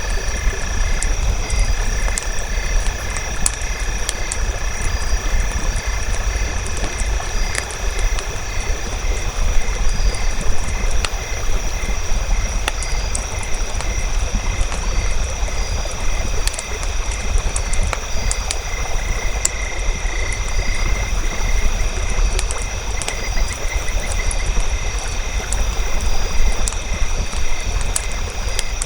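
A campfire crackling with sharp, irregular pops over a steady low rumble, joined by a continuous high-pitched chorus of evenly repeating chirps from night animals.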